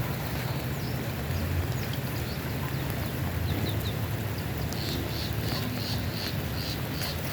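A steady low rumble, with a bird chirping short high notes in a quick repeated series that starts about five seconds in.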